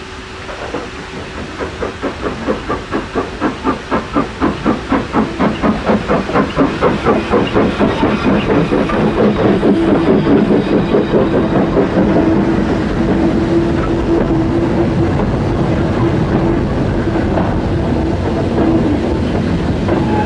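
Steam locomotive starting away, its exhaust beats quickening and growing louder, then merging into a steady loud rumble with a held tone as it passes close by.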